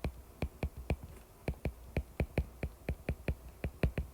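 Keys being typed in quick, uneven succession, about five taps a second.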